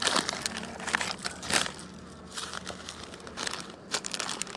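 Crinkly wrapping being handled and crumpled in irregular bursts, with scattered sharp clicks.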